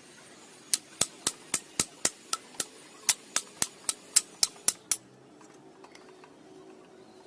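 A run of about sixteen sharp, evenly paced hammer blows on metal, about four a second, stopping about five seconds in.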